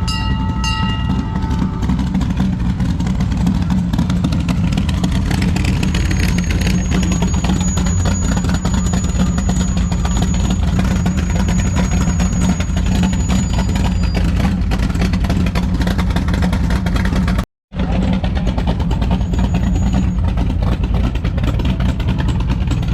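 A car engine running steadily with a low rumble, cutting out for an instant about three-quarters of the way through.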